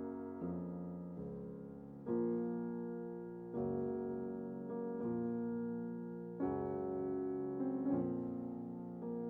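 Background piano music: slow chords struck about every second and a half, each left to fade.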